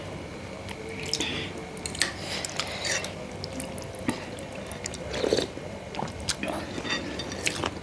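Close-up eating of spicy meatball soup: scattered wet clicks, drips and squelches from spoon, broth and chewing.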